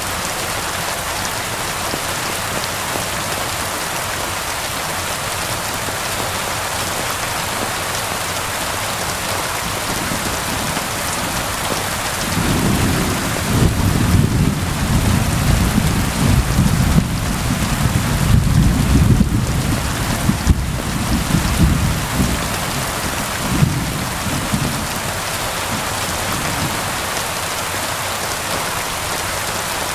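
Steady rain falling, with a long low roll of thunder starting about twelve seconds in that swells and then dies away over roughly ten seconds.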